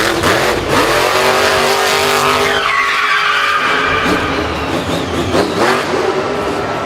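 Racing-car engine revving, its pitch climbing about two seconds in, with tyre skidding noise.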